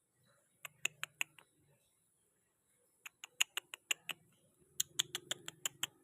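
Rapid high-pitched squeaks in three quick bursts, each of about five to seven short chirps, the last burst loudest.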